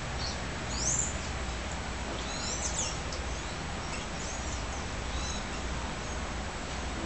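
Birds chirping in the background: a scattering of short, high whistled chirps and quick pitch sweeps, over a steady low rumble of background noise.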